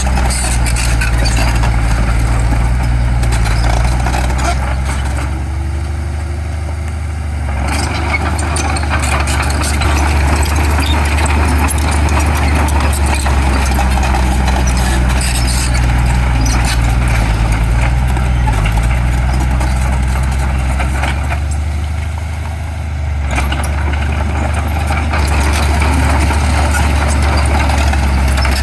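Heavy diesel earth-moving machinery running steadily under load, easing off briefly about five seconds in and again around twenty-two seconds in.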